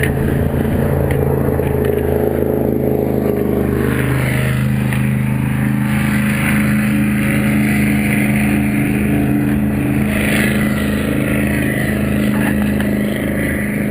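A boat's engine running steadily, with its pitch changing about four seconds in, under a steady hiss.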